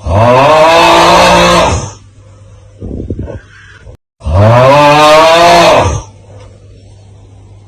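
The 'Aauuggh' meme sound effect, a loud drawn-out cry of 'aauuggh' from one voice, played twice. Each cry lasts about two seconds and rises then falls in pitch. Between the two cries there is a brief rough noise and a low hum.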